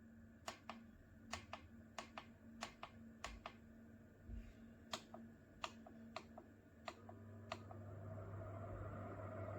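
Sharp clicks, many in close pairs, repeating irregularly for about seven seconds. Then a steady hum with a rushing noise comes in and slowly grows louder.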